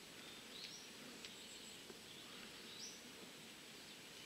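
Quiet forest with a few faint, short, high bird chirps, about one second in and again near three seconds, over a soft background hiss.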